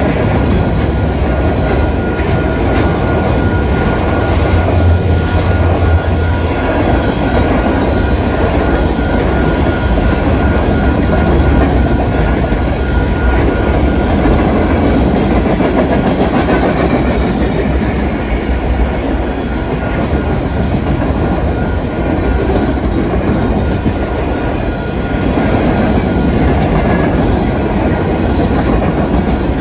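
Train rolling past, its steel wheels running over the rails in a steady roar with some clickety-clack over the joints. A faint steady high wheel squeal carries through most of it.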